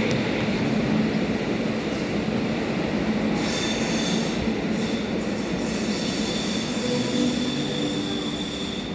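A train moving through the station on the platform track, a steady rumbling run with its wheels squealing in several high, thin tones from about three seconds in.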